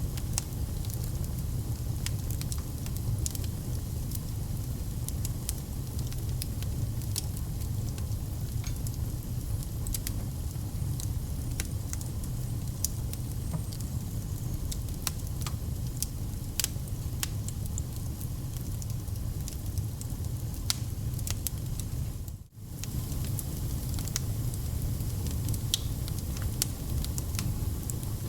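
Wood fire crackling in a fireplace: irregular sharp pops and snaps over a steady low rumble, with a brief dropout in the sound about 22 seconds in.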